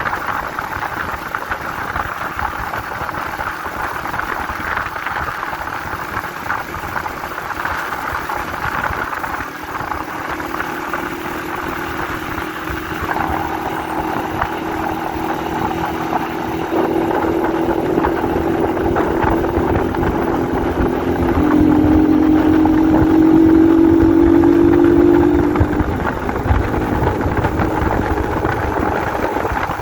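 Honda 125 CDI motorcycle's single-cylinder engine running on the road under a haze of wind and road noise. Its note gets louder and climbs slightly in pitch about two-thirds of the way through, then drops off sharply a few seconds before the end as the throttle comes off.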